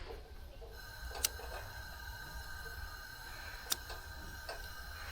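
A lighter being clicked at a propane camp stove to light it: two sharp clicks about two and a half seconds apart, with a faint steady high whine that sets in about a second in.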